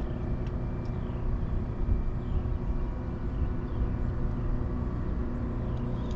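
Boat motor running steadily, a constant low hum with several steady tones.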